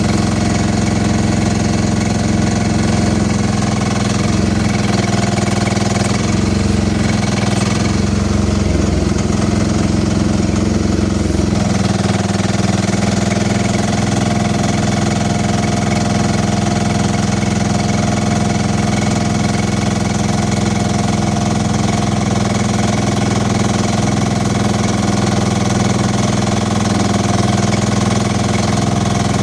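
Minitractor engine running steadily, its note wavering for a few seconds between about six and twelve seconds in.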